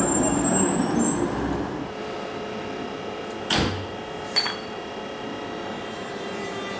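Double-deck railway coaches rolling slowly past with a high wheel squeal, fading out about two seconds in. Then a quieter steady hum as DB Class 146 electric locomotive 146 203 shunts slowly, with two short clanks past the middle.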